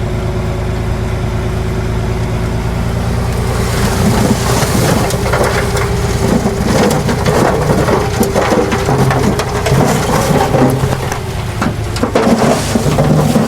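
Heavy diesel earthmoving machine running steadily. From about four seconds in, a dense crackling and crunching sets in: soil and stones tumbling and being pushed.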